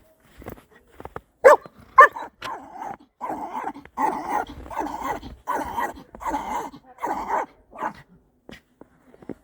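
Dog vocalizing: two sharp barks about a second and a half in, then a string of longer, drawn-out pitched calls, a dog 'talking' to another dog.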